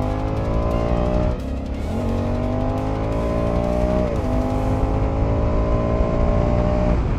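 Honda Africa Twin motorcycle engine accelerating up through the gears. Its pitch climbs, drops at a gear change about a second and a half in and again about four seconds in, then climbs again, over a low rumble of wind and road noise.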